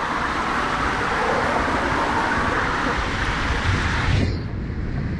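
Steady rushing of water and air while sliding down a water slide. About four seconds in the hiss cuts off sharply, leaving a low muffled rumble.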